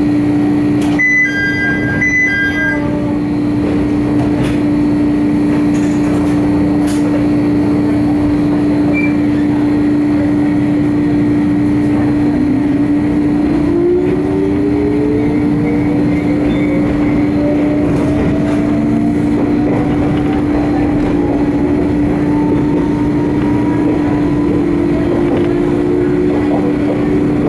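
A Jomo Electric Railway 700-series electric train (ex-Keio 3000 series) heard from inside, running with a steady hum. About halfway through, the traction-motor whine rises steadily in pitch as the train gathers speed. A short run of electronic beeps sounds near the start.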